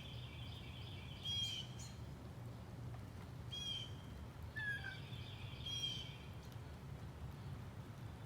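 Birds calling outdoors: several short calls a second or two apart, and one short falling whistle about halfway through, over a steady low hum.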